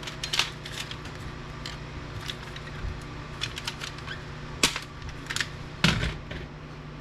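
Irregular clicks, taps and small clatters of hands and tools working loose parts from a UPS unit's internals, with a sharper knock a little before five seconds in and the loudest one about six seconds in, over a steady low hum.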